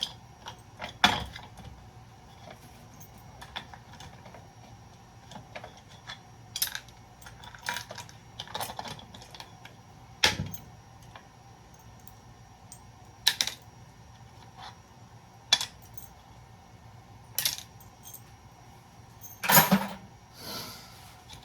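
Small metal parts of a breaker box clinking and clattering as they are handled and set down: separate sharp clinks every second or so, loudest about a second in and near the end.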